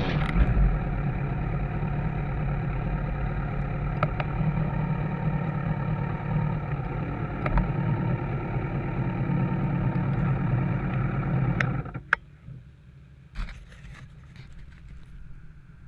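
Motorcycle engine idling steadily, then switched off about twelve seconds in, followed by a few light clicks.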